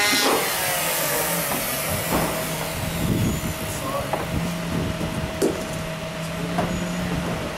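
A steady low mechanical hum, like a motor or engine running, with scattered knocks and clicks of work over it.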